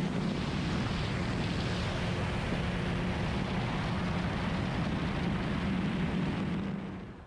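A microlight aircraft's engine droning steadily in flight, a constant low hum under the rush of wind on an onboard microphone. It fades out near the end.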